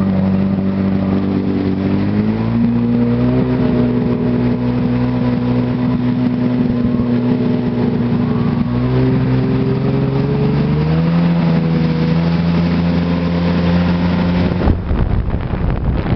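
Jet ski engine running under throttle, its pitch stepping up about two seconds in, dropping around nine seconds and rising again near eleven. Near the end the engine note gives way to wind rushing on the microphone.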